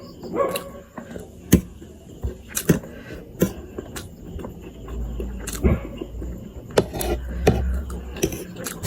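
Close-up eating sounds from a mukbang of spicy instant noodles: chewing and mouth noises with sharp clicks of utensils or bites, about one every half to one second.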